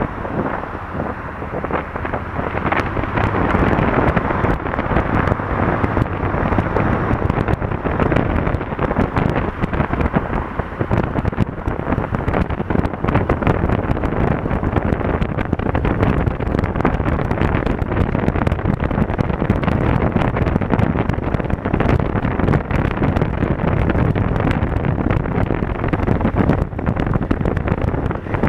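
Steady wind buffeting on an action camera's microphone while riding a Honda Africa Twin CRF1000L, with the motorcycle's parallel-twin engine running underneath.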